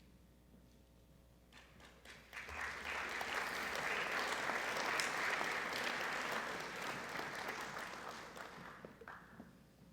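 Audience applauding. The clapping starts about a second and a half in, swells quickly, holds for several seconds and dies away near the end.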